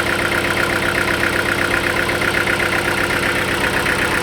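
Sawmill machinery running steadily, an even motor or engine hum with a fast, regular pulsing and no cutting strokes.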